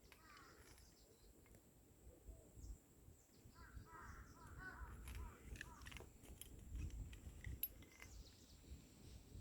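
A bird calling outdoors: a quick run of short, repeated calls from about three and a half to six seconds in, over a faint low rumble.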